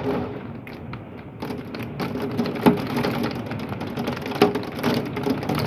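Heavy rain and hail beating on a house and its window: a dense steady patter broken by many sharp clicks of hailstones striking, with two harder knocks a little before the middle and about a second and a half later.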